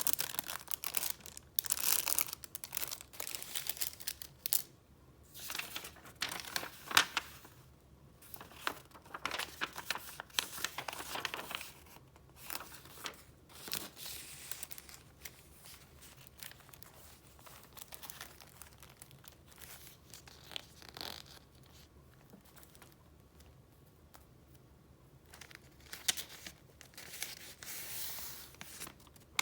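Paper rustling and crinkling as a file of retro paper goods is handled and its pages flipped. It is busy and close-up for the first dozen seconds, then sparser and quieter, with another burst of rustling near the end.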